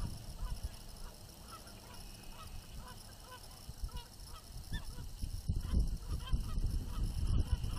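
A series of short bird calls, about two or three a second, over low gusts of wind on the microphone.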